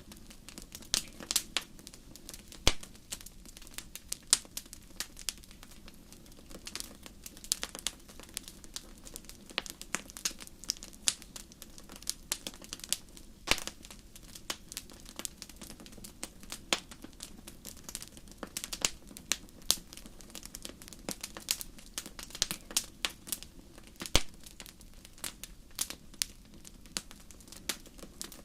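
Wood fire crackling in a fireplace: irregular sharp pops and snaps, several a second with a few louder ones, over a low steady rumble.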